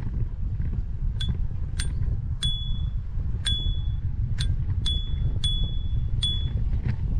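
Bicycle bell rung repeatedly, about eight short dings at irregular intervals, each ringing briefly at the same pitch. Steady wind and riding rumble runs underneath.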